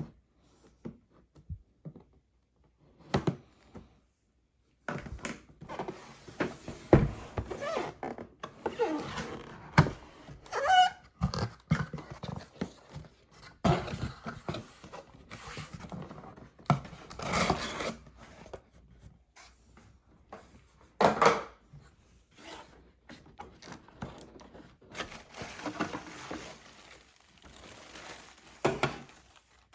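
Plastic toy pieces and packaging being handled and set down on a table: irregular knocks, clicks and rustling scrapes that start about five seconds in, with a brief squeak near the middle.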